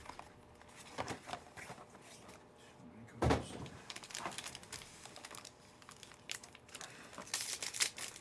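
Faint crinkling and clicking of sports-card packs and their box being handled and opened, with one louder thump about three seconds in and busier crinkling near the end.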